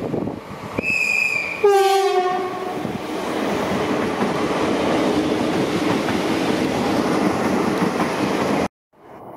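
Electric commuter train sounding a two-note horn, a short high note and then a lower one, then passing close by with a steady rush of wheels on rail and some clickety-clack. The sound cuts off suddenly near the end.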